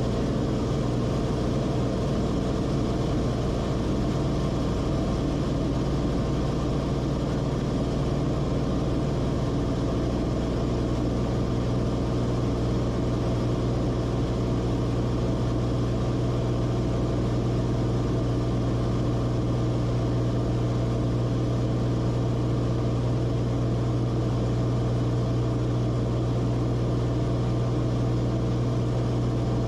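The Cessna Corvalis TTX's turbocharged six-cylinder engine and propeller drone steadily, with a strong low hum that holds one pitch throughout.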